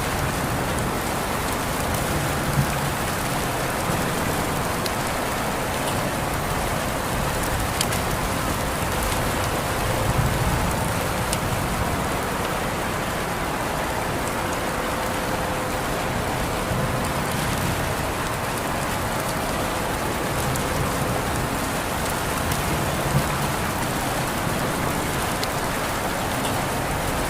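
Steady rain falling, a constant hiss with scattered sharper drop taps and an occasional soft low rumble.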